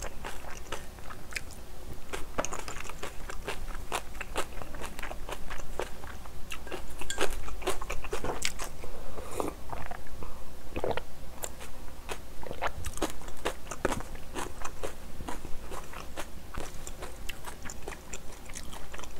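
Close-miked mouth sounds of a person chewing the last mouthful of spicy curry rice: many small wet clicks and smacks. About halfway through she drinks from a glass.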